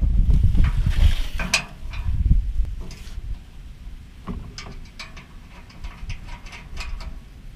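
Irregular metallic clicks and knocks from tools and steel parts being handled while a hitch rack is assembled, with wind buffeting the microphone as a low rumble for the first couple of seconds.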